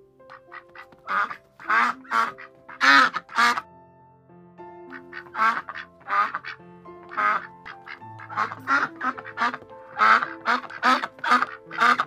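Domestic ducks quacking over and over in runs of several quacks, over quieter background music of held notes.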